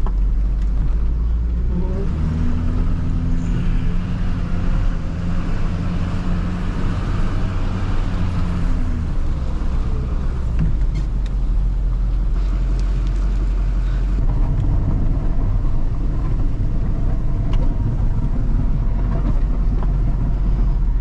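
Snow-plow truck's engine running with a steady low rumble and hum; the hum is clearest from about two seconds in to about nine seconds, then the sound turns rougher and noisier.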